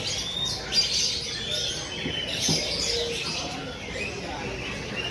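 Many caged songbirds chirping, trilling and whistling at once, a dense overlapping chorus of short high calls and whistled glides.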